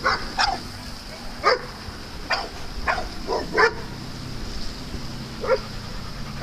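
Dog barking in short, sharp barks, about seven at irregular intervals, with a longer gap before the last one near the end, over a steady high hiss.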